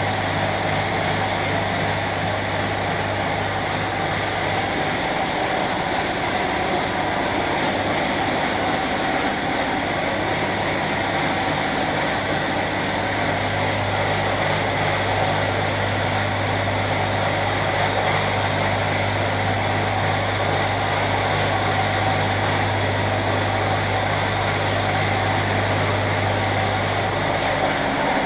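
Steady machinery noise: a low electric-motor hum over a constant hiss. The hum stops about five seconds in and comes back around thirteen seconds.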